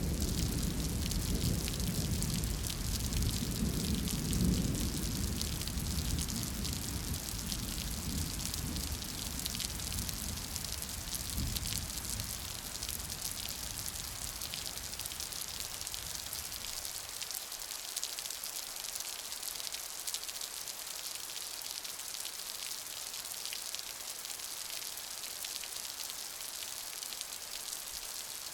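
Steady rain falling, with a low rumble of thunder that dies away over the first half, leaving only the even hiss and patter of the rain.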